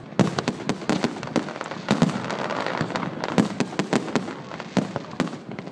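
Fireworks display: rapid, irregular sharp bangs and pops, several a second, over a continuous crackling.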